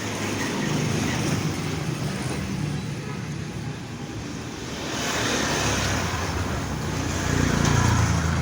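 Motor vehicle engines and road traffic, a steady low hum with noise that swells twice, loudest near the end.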